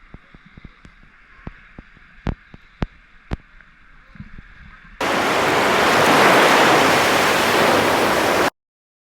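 Surf washing on the beach: a faint hiss with a few sharp clicks, then about five seconds in a loud, even rush of water that cuts off abruptly.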